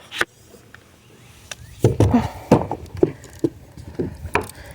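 Irregular knocks and clicks of fishing gear being handled in a kayak, beginning about two seconds in, a couple of knocks a second, with a few sharp clicks before.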